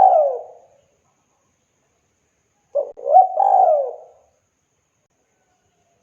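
Spotted dove (tekukur) cooing: the end of one phrase at the start, then a full phrase of a short note followed by longer rising-and-falling coos about three seconds in.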